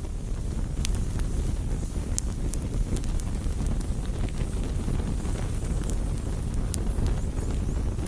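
Campfire burning: a steady low noise of the flames with scattered sharp crackles and pops from the burning wood.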